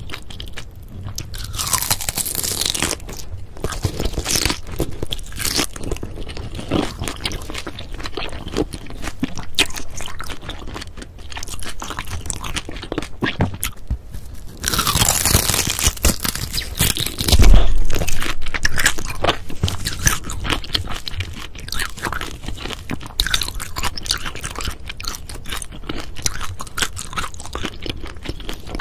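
Close-miked biting and chewing of grilled daechang (beef large intestine), crunching through its crisp outer skin. The loudest crunches come just past halfway.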